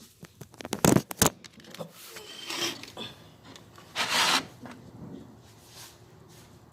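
A window being opened: a quick run of clicks and knocks from the latch, then rubbing and scraping as the sash slides, the longest scrape about four seconds in.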